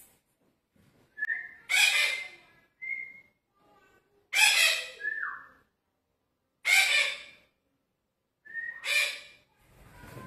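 Red-breasted parakeet giving four loud, harsh calls about two seconds apart, with short whistled notes between them, one falling in pitch.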